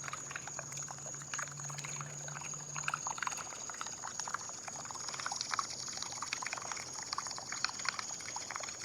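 Pool water trickling and lapping, with many small irregular splashes. A low hum runs underneath and stops about three seconds in, and a steady high-pitched whine continues behind it.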